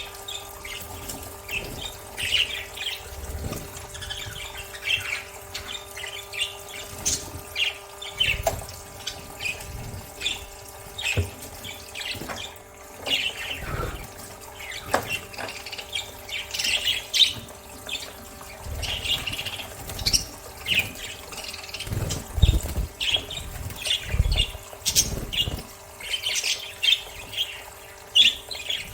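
Budgerigars chirping and squawking in quick, frequent calls, with water splashing as they bathe.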